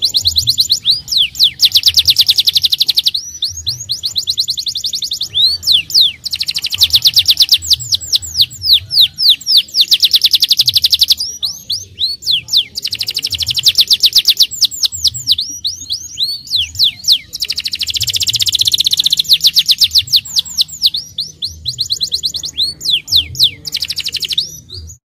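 Domestic canary singing at full volume, a long run of fast trills and rolls, each phrase a rapid string of repeated sweeping notes. The song breaks off suddenly near the end.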